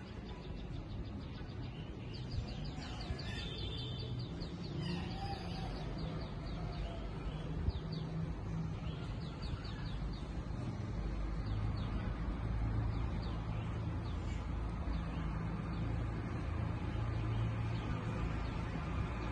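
A bird calling in quick runs of short, high chirps during the first half, over a steady low rumble that grows a little louder after about ten seconds.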